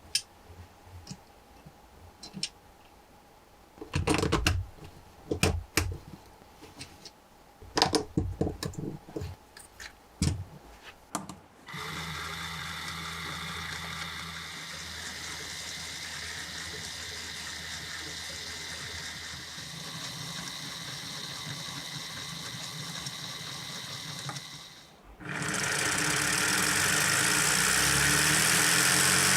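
Lego Technic pieces clicking and snapping together for about the first twelve seconds. Then a motor-driven Lego straight-four engine model spins with a steady mechanical whir. It stops briefly near the end, then starts again louder.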